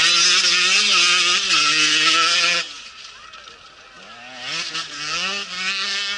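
Rally motorcycle engines at high revs, shifting up and down in pitch as the bikes pass. The loud first one cuts off abruptly a little over two and a half seconds in, and a second one rises from about four seconds in.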